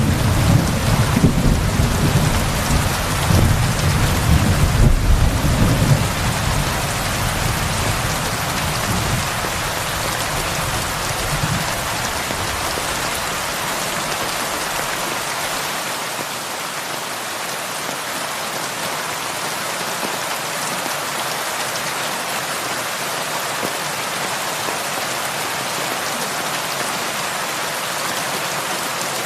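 Heavy rain falling in a steady hiss. A deep rolling rumble of thunder underneath is loudest in the first six seconds and dies away by about twelve seconds in.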